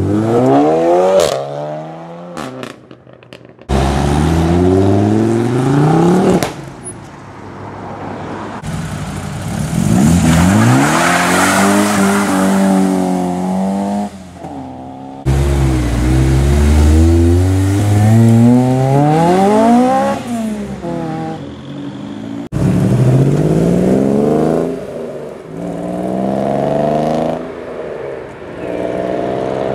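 Modified cars accelerating hard away one after another, their engines revving up with rising pitch and dropping back at each gear change. The runs follow in quick succession with abrupt cuts between them.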